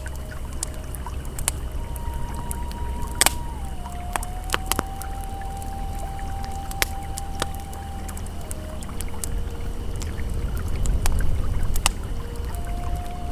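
Campfire crackling with scattered sharp pops over the low, steady rush of a flowing river. A soft, held ambient tone sounds above them, stepping down in pitch about four seconds in and fading out a few seconds later.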